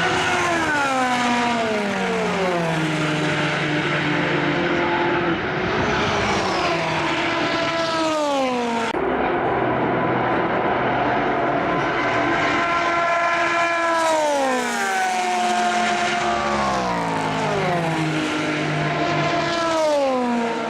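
Endurance race cars' engines at full racing speed, their pitch repeatedly sliding down in steps as they pass and slow. The sound changes abruptly about 9 seconds in, then the falling engine notes go on.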